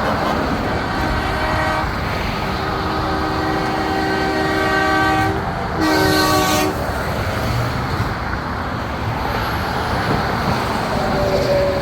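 Big-rig air horn sounding a chord of several notes, like a train horn: a long blast of about four seconds, then a shorter, louder blast. A single-note horn begins near the end, over steady truck engine and road noise.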